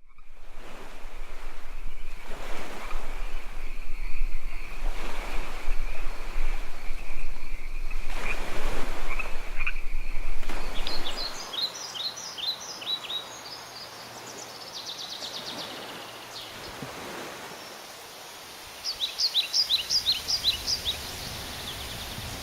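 Outdoor ambience. For about the first half a loud rushing noise swells and fades in slow waves, with a steady high tone under it. Then it turns quieter, and birds chirp in short series, with a quick run of about a dozen chirps near the end.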